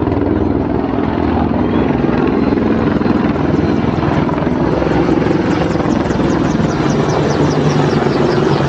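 AH-64 Apache attack helicopter flying overhead, its rotor beating fast and steady with a constant engine note.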